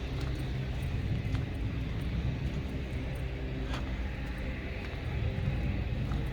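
Steady low rumble of distant engine noise, with a few faint clicks.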